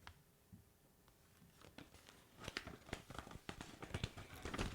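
Near silence, then from about halfway in a run of faint rustles and small clicks from a picture book being handled and its page turned.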